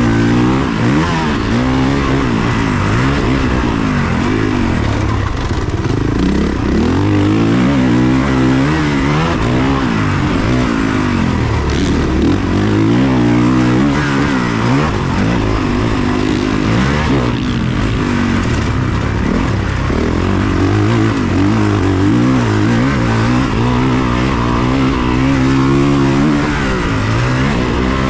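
Motocross dirt bike engine revving hard on a lap of a dirt track, its pitch climbing and dropping again and again as the rider opens and closes the throttle and shifts through the gears.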